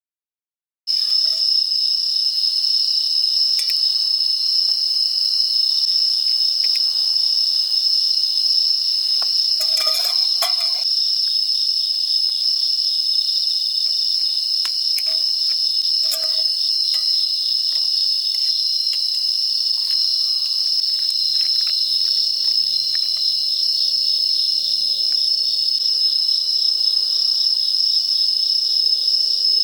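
Insects chirring in a steady, high-pitched, unbroken trill that cuts in abruptly about a second in, with a few faint clicks and taps about a third of the way through.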